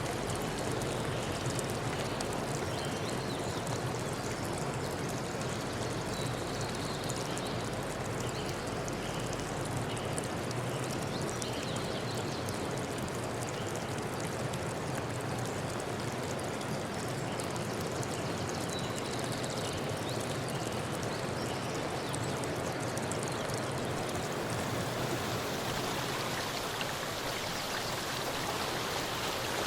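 Steady, unbroken rush of water in a natural setting, from a forest stream or falling rain, with no voices.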